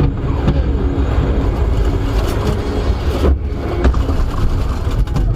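Motor vehicle engine and road noise, a loud, steady low rumble, with a couple of brief knocks about two and three seconds in.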